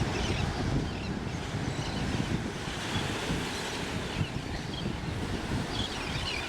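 Wind buffeting the microphone over a steady wash of ocean water, with a gusty low rumble.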